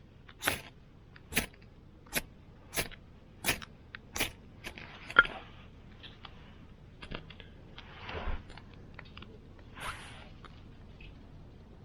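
A steady run of sharp knocks, about seven strokes roughly 0.7 s apart, then a single loud click about five seconds in, followed by scattered softer clicks and rustling.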